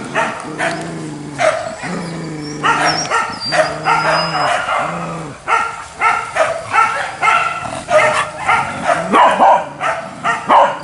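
Hunting dogs barking and yipping excitedly, many short sharp calls overlapping, mixed with a few longer drawn-out whining calls.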